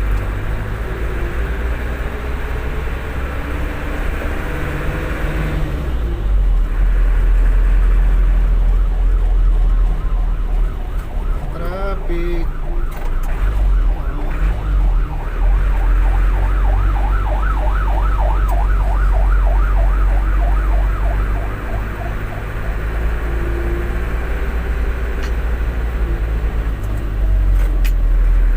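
Emergency vehicle siren in a fast yelp, warbling up and down several times a second, rising out of steady vehicle road rumble about ten seconds in and fading out a little after twenty seconds.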